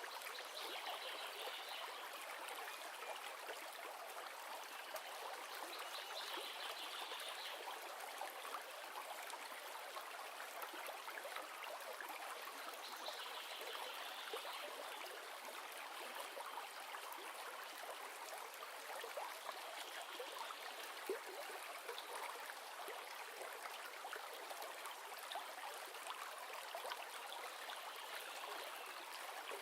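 River water running steadily, an even babbling rush with small swells in the splashing every few seconds.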